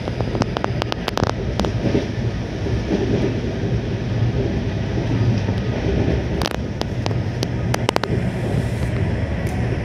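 Inside a moving Indian Railways AC two-tier coach: the steady low rumble of the train running along the track, heard through sealed windows, with scattered sharp clicks and knocks, a cluster in the first second or so and another between about six and a half and eight seconds in.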